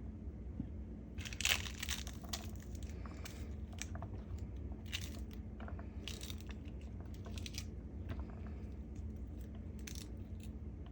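A pomegranate being worked apart by hand: scattered crackling and crunching as the peel and pith are pulled back and the seeds break loose, the loudest crackle about a second and a half in.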